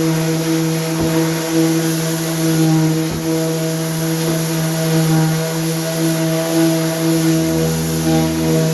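An electric motor running steadily at one constant pitch, with a couple of faint knocks. A lower hum joins in near the end.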